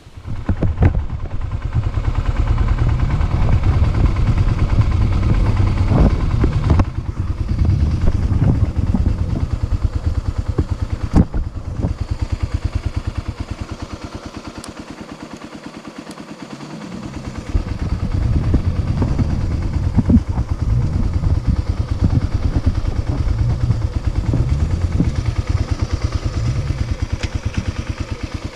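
Dirt bike engine running under changing throttle while riding, with a few sharp knocks. It eases off to a lower, quieter run around the middle, then picks up again.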